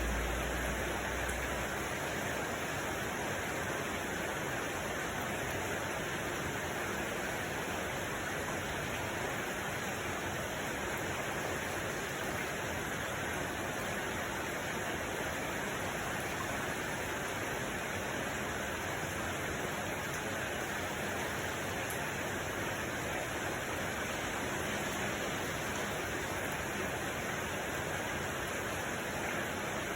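Steady, unchanging rushing noise spread evenly from low to high pitch, with a low rumble underneath that fades out in the first second or two.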